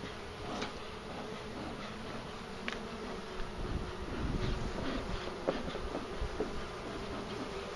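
Italian honeybees buzzing steadily in large numbers around an opened hive, with a few faint clicks.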